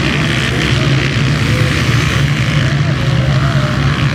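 Motocross bike engines revving up and down on the track, their pitch rising and falling over a steady low drone.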